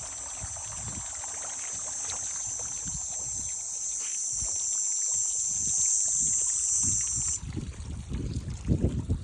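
Water trickling and sloshing, under a steady high-pitched insect buzz that cuts off suddenly a little past seven seconds in. After that, low irregular sloshing surges grow louder.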